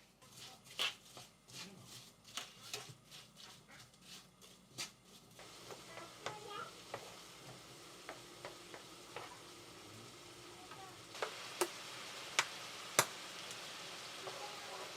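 Kitchen prep sounds: a utensil clicking and scraping rapidly against a bowl as ingredients are stirred, then a steady hiss that grows louder, with a few sharp clicks near the end.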